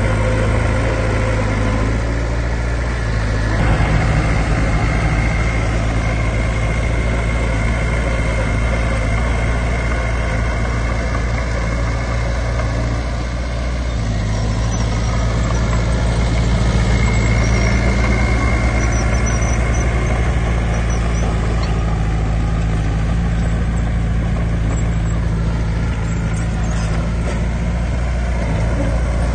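Heavy diesel earthmoving machinery running steadily, a bulldozer or dump truck engine with a deep drone and a thin high whine that comes and goes.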